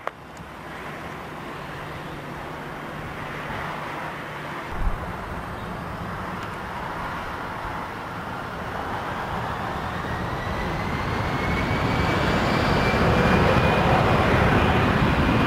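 Jet airliner engines at takeoff power on the takeoff roll, the noise growing steadily louder as the aircraft comes closer, with a thin fan whine that slowly rises in pitch. There is one brief low thump about five seconds in.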